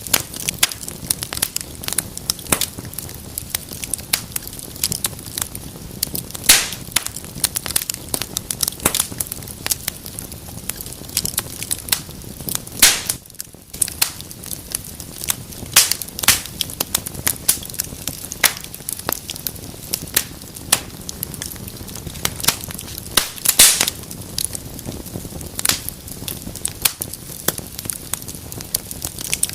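Wood fire burning in a fireplace, crackling with irregular sharp pops over a low rush of flame; a few louder snaps stand out, one about two-thirds of the way through.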